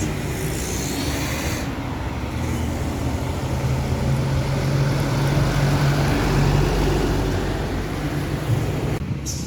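Truck engine running under a heavy load, swelling louder through the middle and easing off again, with a brief hiss near the start.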